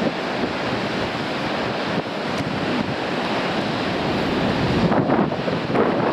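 Waves breaking on a rocky shore in a strong wind, a continuous roar of surf with wind buffeting the microphone in gusts, swelling a little near the end.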